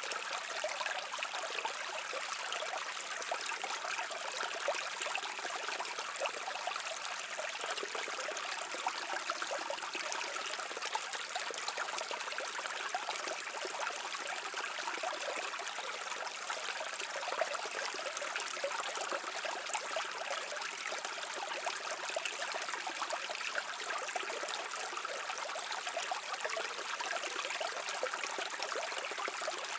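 Shallow stream water running and trickling over rocks, a steady bright babble with many small splashes.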